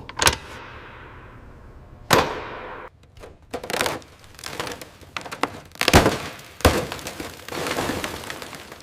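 Irregular sharp knocks and clanks from tools and parts being worked on, some with a short ringing tail. The loudest strikes come about two seconds in and around six seconds in.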